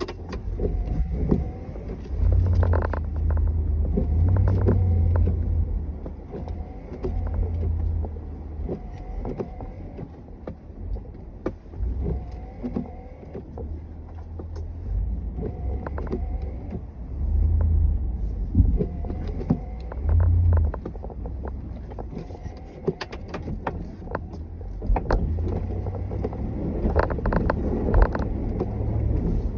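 Snow-plowing vehicle's engine running under load, its low rumble swelling and easing every few seconds, with scattered clicks and knocks.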